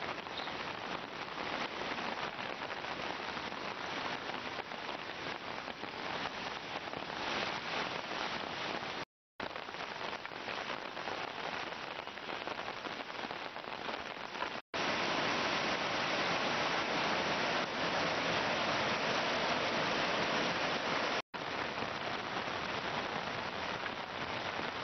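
Steady rain falling, an even hiss broken by three short silent gaps where the recording cuts. The water noise is louder and more even through the middle third, where rushing floodwater likely mixes in.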